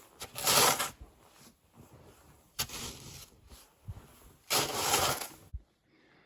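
Boots crunching through deep snow: three separate crunching steps with short pauses between them.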